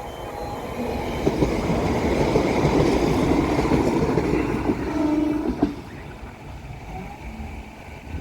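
A train passes over a level crossing, its noise building from about a second in, loudest for a few seconds, then falling away sharply near six seconds in. The crossing's repeating alarm tones sound briefly at the start.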